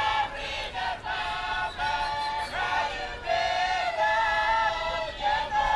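High voices singing together in chorus, a song of held notes that change every half second to a second.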